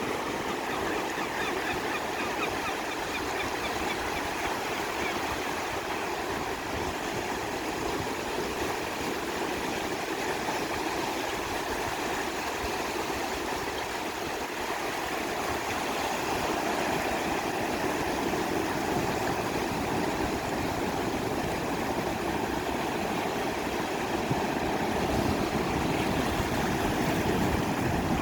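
Ocean surf breaking and washing on a sandy beach: a steady rushing noise that grows a little louder in the second half.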